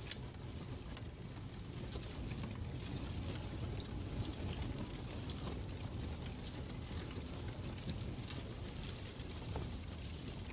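Fireplace crackling: a steady low rumble with irregular small pops and crackles scattered throughout.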